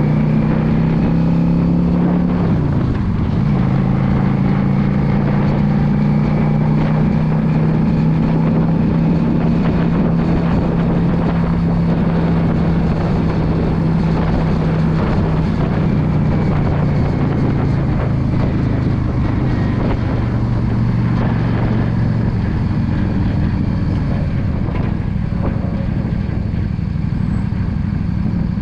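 Yamaha V Star 650's air-cooled V-twin engine running at road speed under steady wind and road noise. About three seconds in its note dips and picks back up as with a gear change, then it holds and slowly falls, and near the end the engine note fades, leaving mostly wind and road noise.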